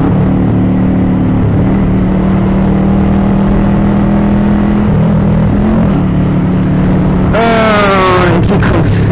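Motorcycle ride heard from on board: a steady engine drone. About seven seconds in, a loud sound falls in pitch for a second or two.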